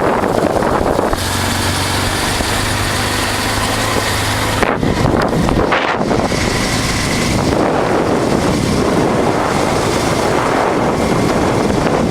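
Wind rushing over the microphone of a moving motorcycle, with the 1988 Honda Transalp's V-twin engine running underneath at a steady pace. The engine hum stands out most clearly from about one to four and a half seconds in.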